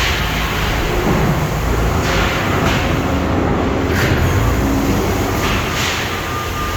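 Steady industrial rumble of steel-handling machinery, with several sharp metallic clanks spread through it as steel sheets are handled.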